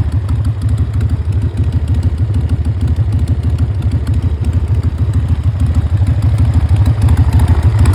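Harley-Davidson Evolution Sportster's air-cooled V-twin idling with an even, rapid pulsing beat, a little louder near the end.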